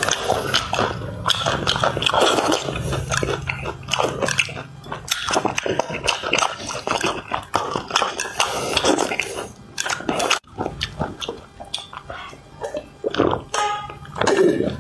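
A person chewing and eating spicy braised fish close to a collar microphone: wet mouth noises and quick, irregular clicks of biting and lip smacks.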